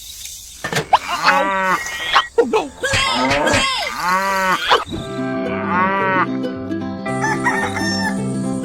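Animal calls, several arching, crowing-like cries in a row. Music with a stepping low note pattern comes in about halfway through.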